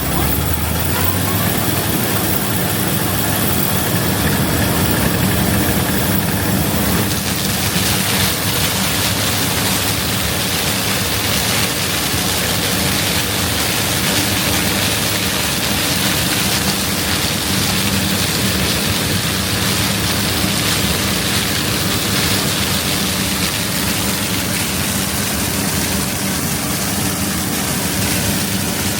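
Heavy diesel harvest machinery running steadily: a low engine hum under a loud, even rushing noise that grows brighter about seven seconds in.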